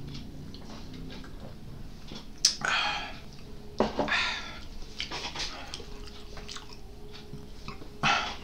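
A person eating close to the microphone: soft chewing and mouth clicks, broken three times by short, louder mouth noises with a sudden start, about two and a half seconds in, at four seconds and near the end.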